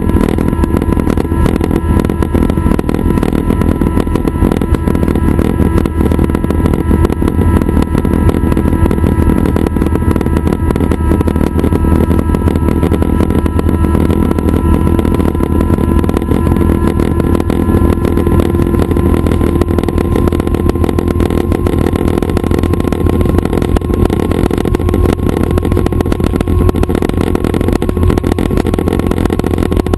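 Schweizer 269 light helicopter running steadily: its four-cylinder Lycoming piston engine and rotors make a constant deep drone with a few steady whining tones, without a change for the whole stretch.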